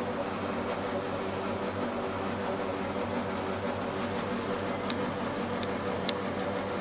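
Kone MonoSpace 500 gearless traction elevator running, a steady hum in the cab, with a few light clicks about five to six seconds in.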